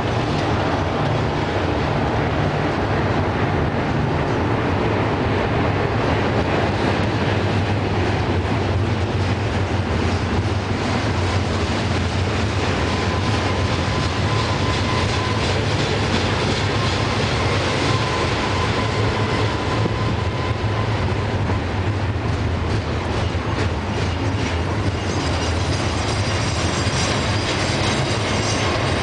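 Double-stack intermodal well cars rolling past: a steady rumble of steel wheels on rail. Thin, high wheel squeal joins near the end.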